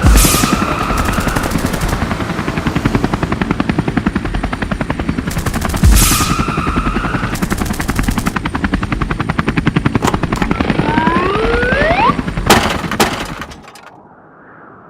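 Cartoon action sound effects: a fast, steady mechanical pulsing of many beats a second, broken by a heavy impact at the start and another about six seconds in. Rising whistle-like glides and two sharp hits come near the end, then the sound drops away to a faint hum.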